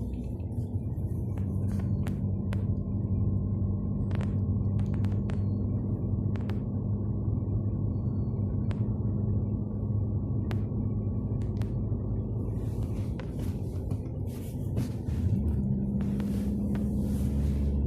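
Peugeot 406 driving, heard from inside the cabin: a steady low drone of engine and road noise, its note shifting about fifteen seconds in, with scattered faint clicks.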